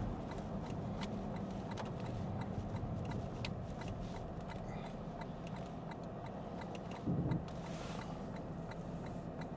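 Lexus ES 350 F Sport cabin sound while driving: a steady low engine and road hum with a regular light ticking throughout. A short louder low swell comes about seven seconds in.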